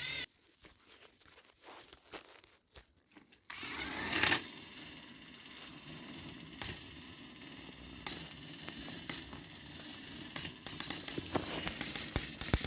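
Small battery-powered toy train engines running against each other, a steady motor whir with clicks and rattles from wheels and couplings that grow frequent near the end. The sound starts about three and a half seconds in, after a near-silent start.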